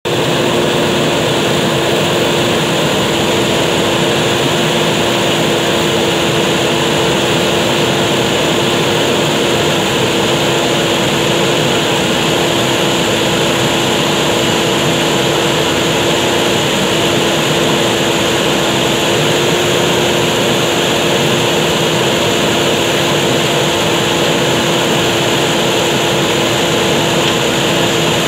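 JCB backhoe loader's diesel engine running steadily at high revs, with a constant hum over a dense mechanical noise that barely changes.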